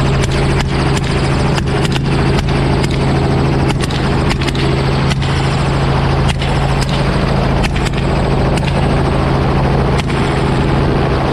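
Helicopter running steadily with its constant low drone, heard from on board, while rifles fire a rapid, irregular string of shots, often less than a second apart.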